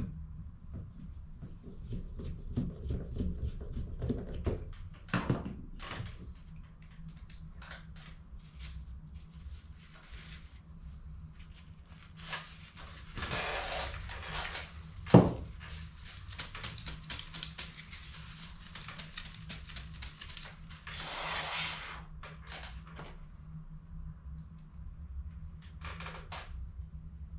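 Hands working on a plastic toner cartridge: scattered clicks, rustling and scraping noises over a steady low hum, with one sharp loud snap about fifteen seconds in.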